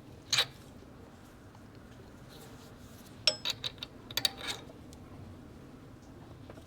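Small metal engine parts and tools clinking on a workbench: a brief rustle just after the start, then two quick clusters of sharp metallic clinks with a short ring, about three and four seconds in.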